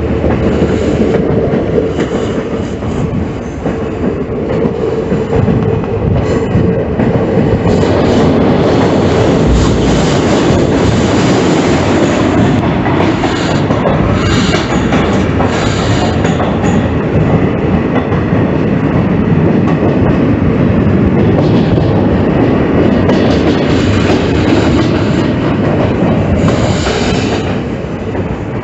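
Passenger train running along the line, its wheels clattering over the rails in a steady loud rumble, with a faint steady whine running through it.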